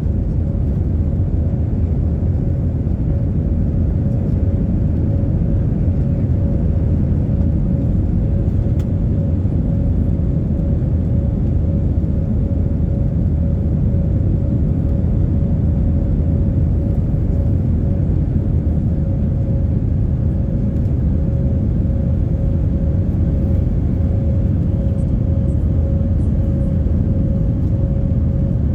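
Airbus A320's jet engines running steadily: a constant low rumble with a steady hum tone over it, unchanging in level.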